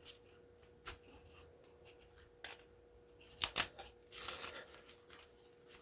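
Hand cutting pliers working on scrap metal: a few light clicks, then a pair of sharp snaps about three and a half seconds in, followed by a short rustle of the pieces being handled.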